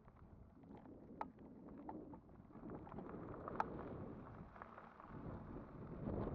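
Riding noise from a Kugoo Kirin V5 e-bike: wind buffeting the microphone over a steady tyre rumble, with two sharp clicks of a rattle or knock, growing louder near the end.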